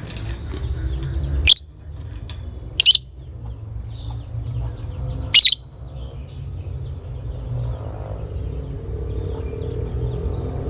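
Lovebird giving three short, loud, shrill calls: one about a second and a half in, one near three seconds, and one about five and a half seconds in, over a steady low rumble.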